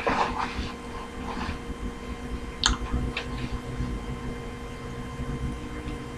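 Handling noises: a few clicks and rustles near the start and a sharp click about two and a half seconds in, over a steady faint hum.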